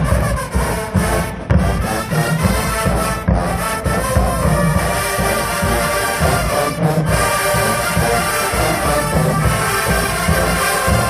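HBCU marching band playing loudly: massed brass holding chords over repeated heavy drum hits.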